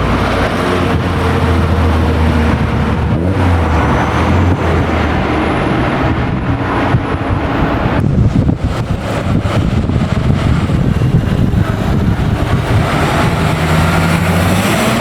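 Classic car engines running: a low, steady engine note in the first half gives way to a rougher, noisier rumble about eight seconds in.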